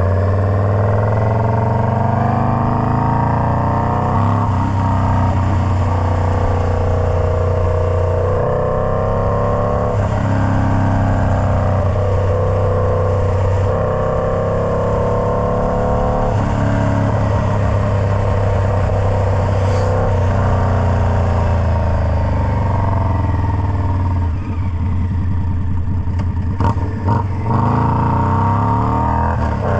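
Indian Scout Bobber's V-twin running through a Freedom Performance Combat 2-into-1 exhaust, its engine speed climbing and dropping several times over a steady low exhaust drone.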